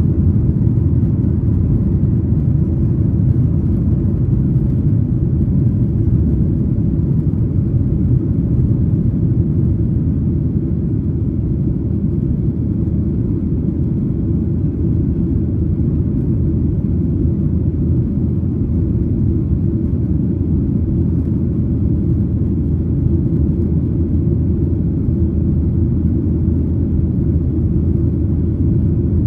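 Steady low rumble of a Boeing 737-900ER's CFM56-7B jet engines and airflow heard inside the passenger cabin.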